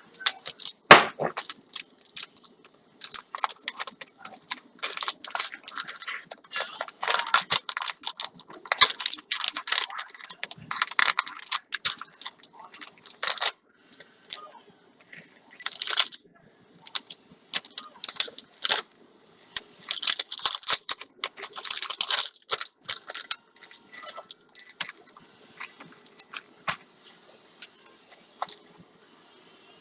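Paper and plastic packaging being handled and torn open: an irregular run of crinkling and rustling crackles with short pauses.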